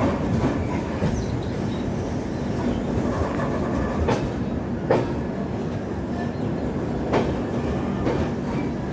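Passenger train running along the track: a steady rumble of the coaches, with the wheels giving a few sharp clacks over rail joints, about four and five seconds in and again near the end.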